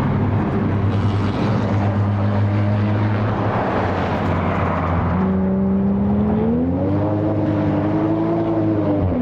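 Time attack race car engine running hard on track: its note holds steady, rises from about five seconds in as it accelerates, then drops sharply near the end, as at a gear change.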